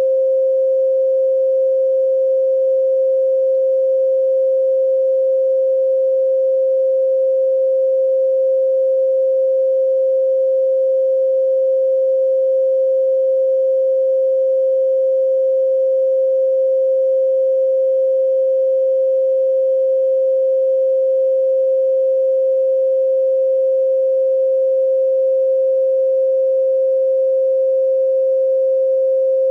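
A steady, pure 528 Hz sine tone, unchanging in pitch and loudness.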